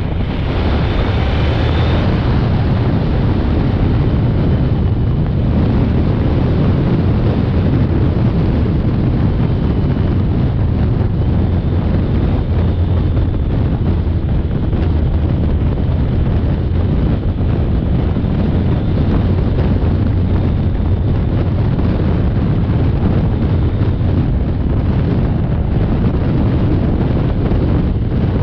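Wind rushing over the microphone of a motorcycle ridden at speed, a steady low rush that masks the engine.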